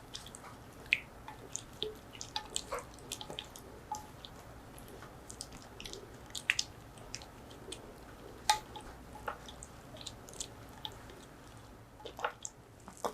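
Quiet, irregular small clicks and soft wet taps of food and a utensil being handled over a dish, about a dozen scattered ticks with no steady rhythm.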